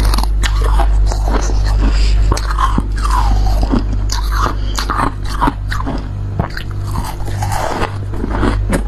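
Freezer frost being bitten and chewed close to the microphone: irregular, crisp crunches with squeaky grinding between bites. A steady low hum runs underneath.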